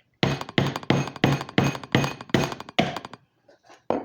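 A hard lobster claw shell being struck repeatedly to crack it open: about eight sharp thunks in quick succession, roughly three a second, stopping about three seconds in.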